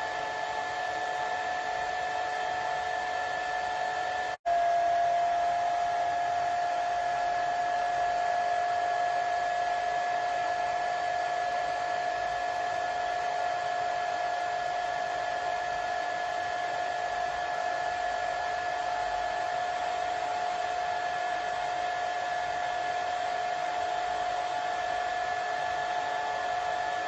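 Hair dryer running steadily: a whooshing rush of air with a steady motor whine on top. About four seconds in it drops out for a split second, then carries on slightly louder with the whine a little lower.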